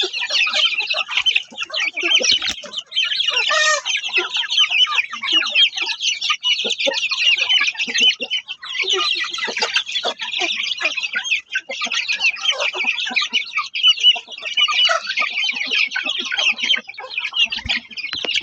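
Many chicks peeping continuously, a dense chorus of short, high chirps, with scattered lower clucks among them.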